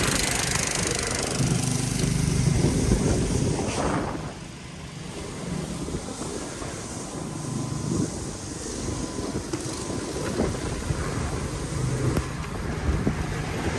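City street traffic: vehicle engines running nearby, with a steady rumble that swells and fades every second or two.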